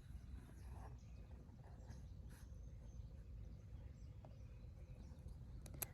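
Near silence: faint outdoor ambience with a steady low rumble, a few faint ticks, and two sharp clicks near the end.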